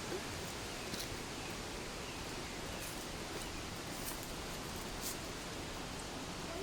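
Steady rushing noise of the Koromosho waterfall on the River Sosiani, water plunging without a break, with a few faint ticks on top.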